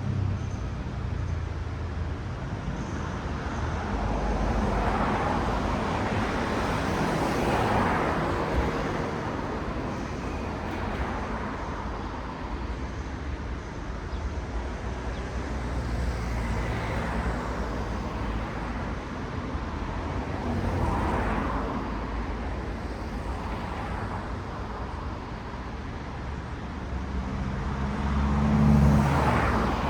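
City road traffic: cars passing one after another, each a swell of tyre and engine noise that rises and fades. Near the end, one louder pass carries a low engine hum.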